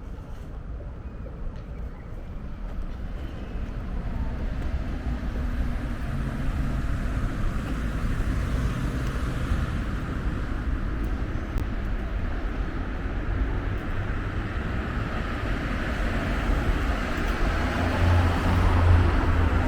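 Motor vehicle approaching along a road, its engine hum and tyre noise growing steadily louder, with a low engine drone strongest near the end as it comes close.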